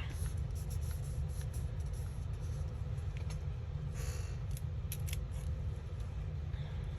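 Scissors cutting paper: a few sharp snips and a brief paper rustle about four seconds in, over a steady low hum.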